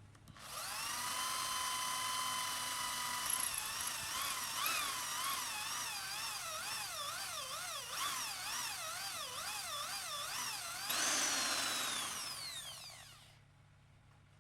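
Small high-speed electric power tool, such as a drill or rotary tool, starting up with a rising whine about half a second in and running steadily. Its pitch then wavers up and down for several seconds as the motor is loaded against the work. It gets louder for a moment near the end, then spins down and stops.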